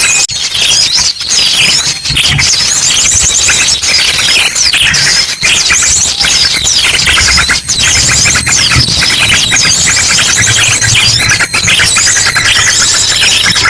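Bird-lure recording: a dense, loud chorus of many small birds chirping and twittering over one another, mixed with ashy drongo calls, with no pauses. A low steady hum runs beneath.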